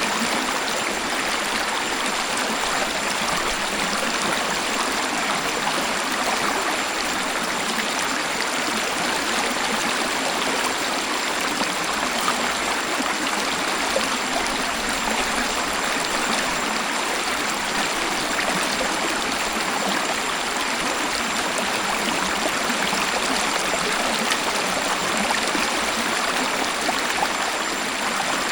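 Waterfall water falling and splashing in a steady, even hiss of flowing water, with little deep rumble.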